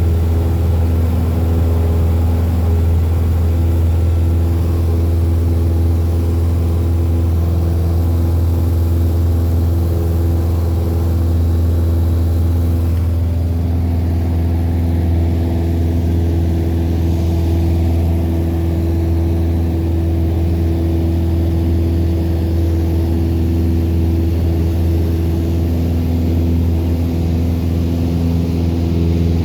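Cessna 172's piston engine and propeller drone steadily, with a slight shift in tone about a third of the way through.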